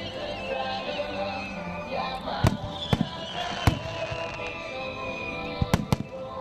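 Aerial fireworks bursting with sharp bangs, five of them: two in quick succession about two and a half seconds in, one near the middle, and a close pair near the end. They sound over steady music carrying a wavering high melody.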